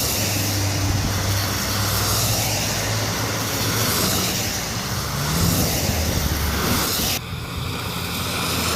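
Motor vehicle engines running with a steady low hum over a broad hiss, one engine rising in pitch briefly around the middle; the sound changes abruptly about seven seconds in.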